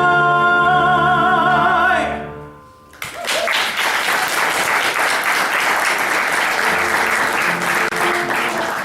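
The final sung note of a musical number, held with vibrato over accompaniment, fades out about two seconds in. After a brief lull, audience applause breaks out suddenly at about three seconds and continues.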